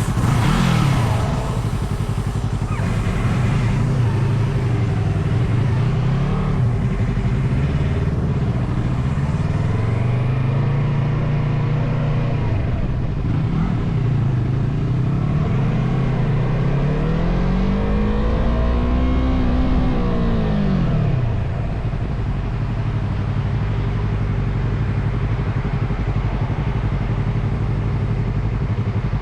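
Motorcycle engine running while riding, its pitch rising and falling as the throttle is opened and eased off, with one long climb and drop about two-thirds through.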